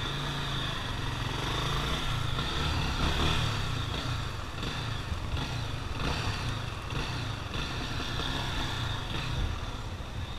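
Motorcycle engine running at low revs, a steady uneven rumble with hiss over it that swells a little about three seconds in.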